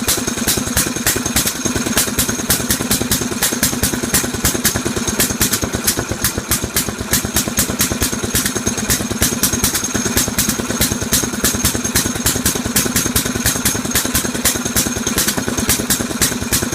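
Antique 6 hp marine inboard engine, of very early 1900s make, running steadily with an even clatter of sharp ticks about four to five a second.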